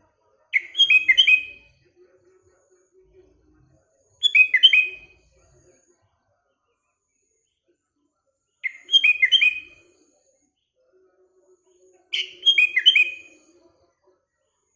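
Sooty-headed bulbul (kutilang) singing: four short phrases of quick notes, each about a second long, a few seconds apart.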